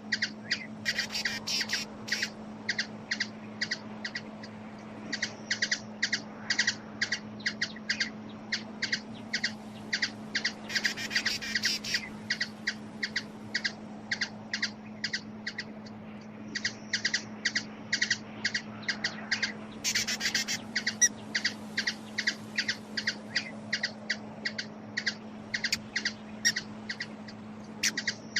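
A small bird repeating short, high chip calls, about three a second, in long runs with brief gaps, broken three times by a rapid burst of twittering. A steady low hum runs underneath.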